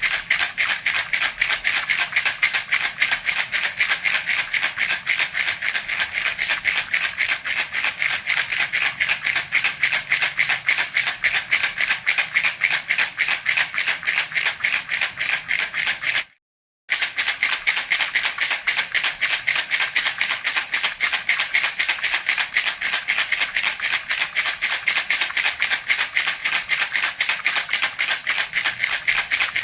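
Baby rattle (jhunjhuna) shaken steadily and rapidly, an even stream of bright rattling strokes. It cuts out for about half a second midway, then carries on the same.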